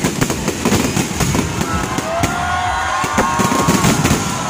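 Fireworks going off in quick succession: dense popping and crackling over low rumbling bangs.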